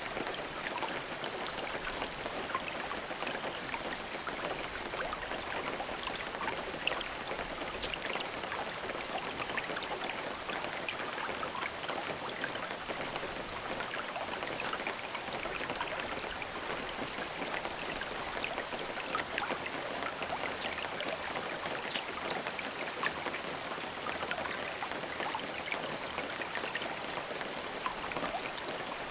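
Steady rain falling, an even hiss full of close individual drops pattering on a surface, with no thunder.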